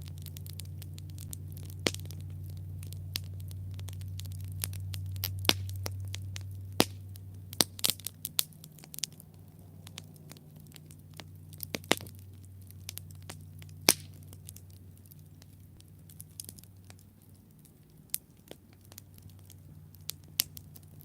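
Wood campfire burning, with irregular sharp crackles and snaps over a low hum. A few louder pops come in clusters, around two seconds in, near the middle and near fourteen seconds. The hum is strongest for the first several seconds, then eases off.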